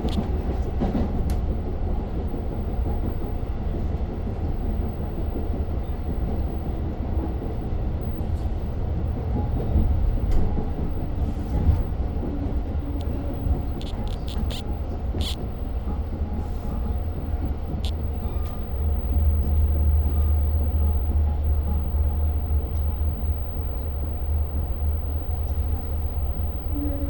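Steady low rumble of a Long Island Rail Road diesel-hauled train, heard inside the passenger coach, swelling for a few seconds about two-thirds through. A handful of sharp clicks come about halfway through.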